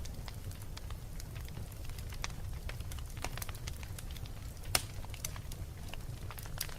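Wood fire crackling in a fireplace: irregular small pops and snaps over a steady low rumble, with one sharper pop about two-thirds of the way through.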